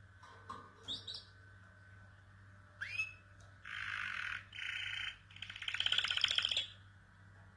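Domestic canary singing: a few short chirps, a rising swept note about three seconds in, then two buzzy phrases and a loud rapid trill, which is the loudest part of the song.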